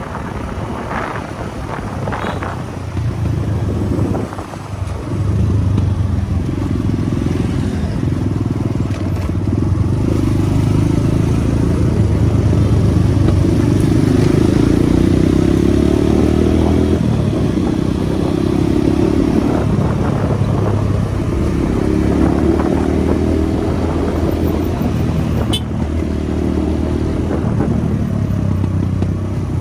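Motorcycle engine running while riding, its pitch rising and falling with the throttle, over wind and road noise. The engine sound drops briefly about four seconds in.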